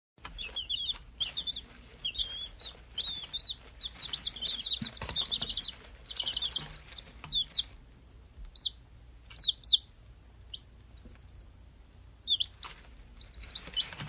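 Birds chirping: a run of many short, high chirps, each rising or falling in pitch, thinning out for a couple of seconds near the end. A faint low hum lies beneath.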